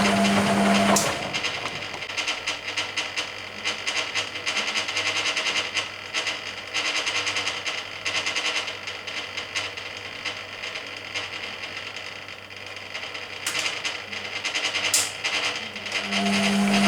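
Hoover Keymatic A3112 washing machine during a rinse: the motor's steady hum stops about a second in, and the drum pauses with irregular clicking and splashing of the rinse water. Near the end the motor hum starts again as the drum resumes turning.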